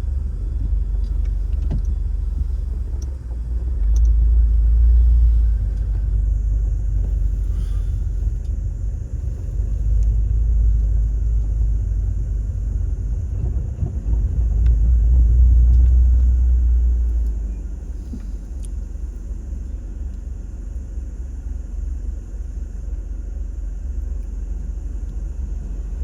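Car driving: a steady low road and engine rumble that swells three times, then settles lower for the last several seconds.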